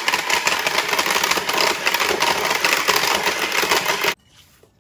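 Black+Decker electric hand mixer running, its beaters working an egg into creamed butter and sugar in a glass bowl, then cutting off suddenly about four seconds in as the mixer gives out.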